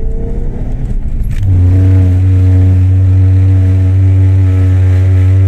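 Car's rear brakes juddering under braking: about a second and a half in, a loud, steady low buzz with a clear pitch sets in over the road noise and holds. The driver describes it as a clean judder, not the metal-on-metal scraping of worn-out pads.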